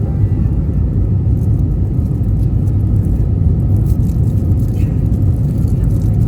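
Airbus A320neo cabin noise heard from a passenger seat: a loud, steady, low rumble of the CFM LEAP-1A engines and airframe.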